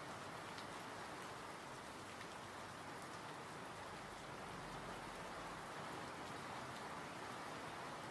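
Steady rainfall with a soft, even hiss and scattered faint drop ticks.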